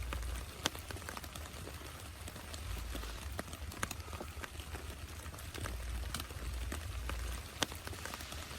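Rain falling, with scattered single drops landing as sharp taps and a low rumble that swells and fades a few times.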